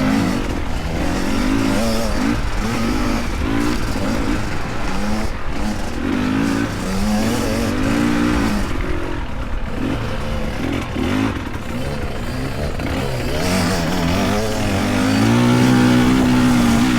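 Small dirt bike engines revving up and down over and over as riders work the throttle on the course. Near the end one bike holds steady, louder revs.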